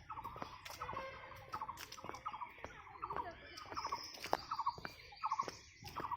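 A short rattling animal call, a quick run of pulses, repeated about every half second to a second, with sharp clicks of footsteps on a paved path.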